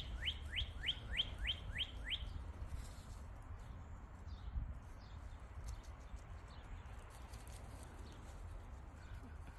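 A songbird singing a fast series of short rising whistled notes, about four a second, which stops about two seconds in; fainter scattered bird notes follow over a low steady rumble.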